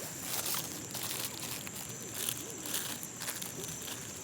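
A steady high insect trill with scattered light clicks and crackles.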